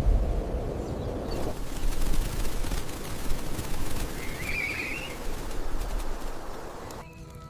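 Outdoor nature ambience: a steady rushing rumble with scattered clicks, and a short bird call about halfway through. Music comes in just at the end.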